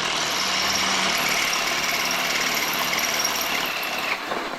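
Power drill running steadily with its bit cutting into a broken steel bolt to drill it out; it stops about four seconds in.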